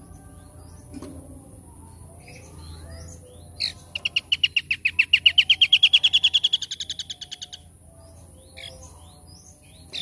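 Songbird singing a fast trill of about eight repeated notes a second for three and a half seconds, rising slightly in pitch and loudest in the middle, after a sharp single note. Scattered faint chirps come before and after it.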